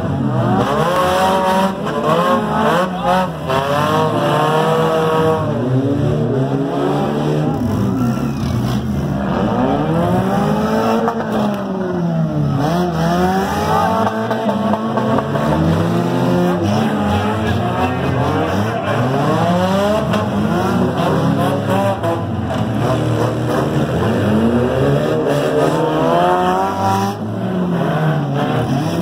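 Several demolition derby cars' engines revving hard, over and over, their pitch rising and falling, the engines overlapping one another.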